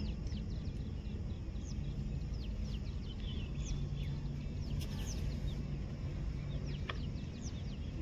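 Small birds chirping, many short high notes sweeping downward, scattered throughout, over a steady low hum.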